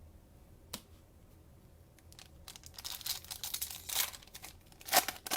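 A cellophane-wrapped trading-card pack being torn open and its wrapper crinkled. A single click comes a little under a second in, then a burst of crackly tearing and crinkling starts about two and a half seconds in, loudest near the end.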